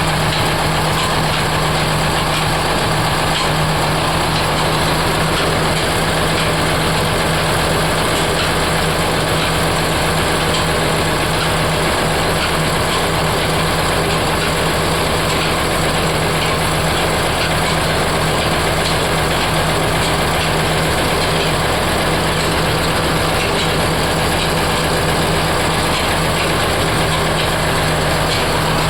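Heavy machinery running steadily: a constant loud hum over an even mechanical noise, unchanging throughout.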